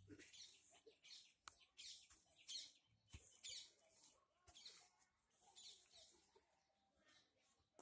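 Faint chirping of small birds: many short, high chirps one after another.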